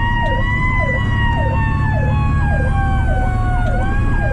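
Fire truck sirens running together: a mechanical Federal Q siren wailing in a slow rise and fall, over an electronic siren that repeats a quick falling figure about every 0.6 seconds. The truck's engine rumbles low underneath.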